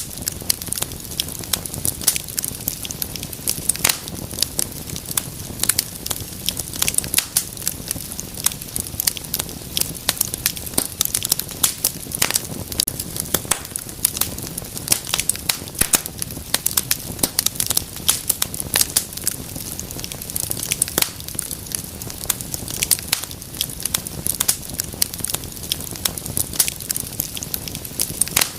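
Wood fire burning, with dense, irregular crackling and popping over a steady low rumble of flame.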